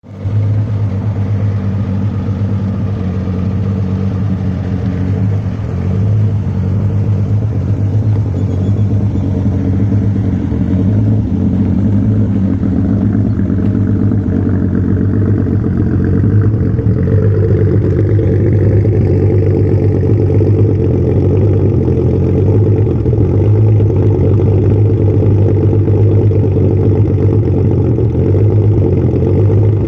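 Twin-turbocharged Nissan VQ37HR 3.7-litre V6 with Tomei 272-duration, 10.7 mm lift camshafts, idling steadily, with a small change in tone about 17 seconds in. The idle on these cams is still being tuned.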